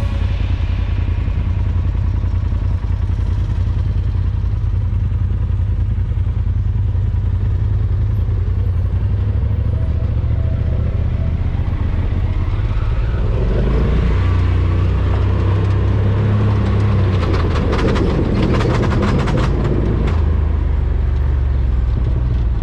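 Side-by-side UTV engine running as it drives along a trail, a steady low drone. About halfway through it gets louder and busier, with clattering later on.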